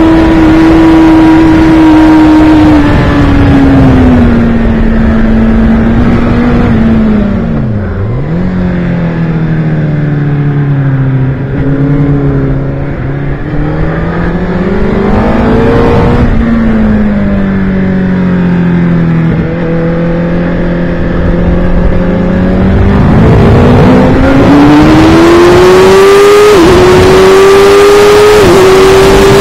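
Sport motorcycle engine heard on board at track speed, with wind rushing over the microphone. The engine note falls as the bike slows for a bend, dips sharply about eight seconds in, picks up, then falls again for another corner. Near the end it climbs hard under acceleration, with two quick dips as it shifts up a gear.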